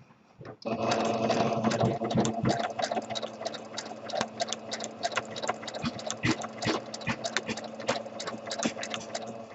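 Sewing machine doing free-motion stitching: the motor hums with rapid needle clicks, starting about half a second in and running on without a break.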